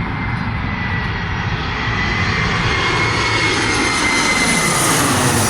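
Airplane engines roaring as the aircraft approaches, growing steadily louder, with a thin high whine over the roar.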